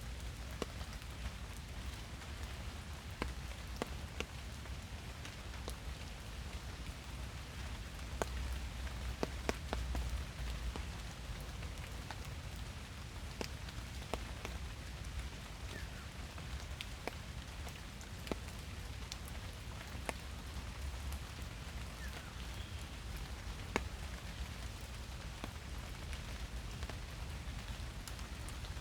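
Steady rain falling in a forest, an even hiss with many separate drops ticking sharply on leaves and other surfaces.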